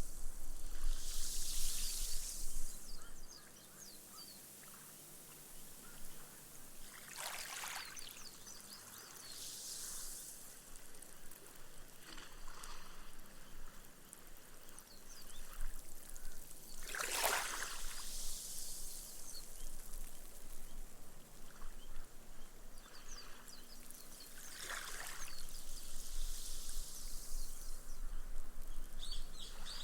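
Small, gentle waves washing up a sandy beach, the water hissing and fizzing as it soaks into the sand and the foam pops. Soft splashes come about 7, 17 and 25 seconds in, the one at 17 seconds the loudest.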